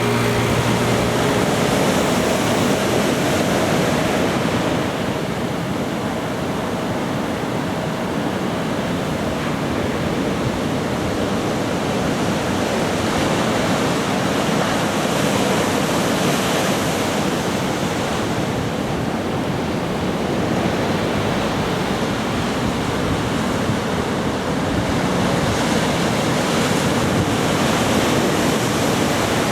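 Ocean surf from typhoon swell breaking along a beach: a continuous wash of waves.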